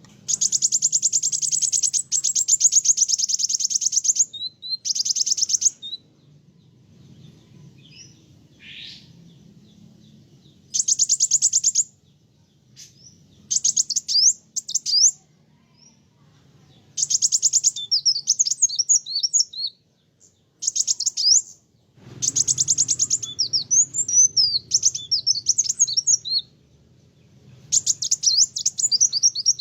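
Kolibri wulung sunbird singing in fast, high, rattling trills and chattering phrases, each burst lasting a few seconds, with short pauses between.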